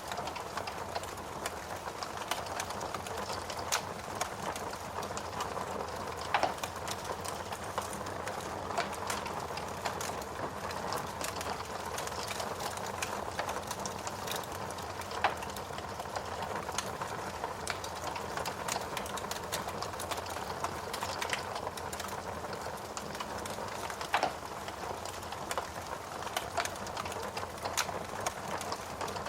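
Fire in a fireplace crackling, with a steady hiss and many small crackles and a few louder pops.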